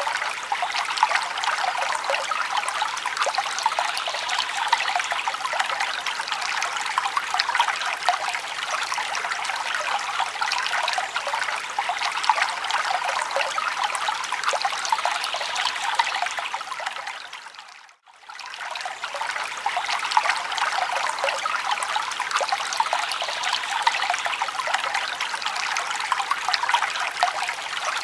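Forest stream water trickling and babbling steadily over rocks. About two-thirds of the way through it fades briefly to near silence, then swells back.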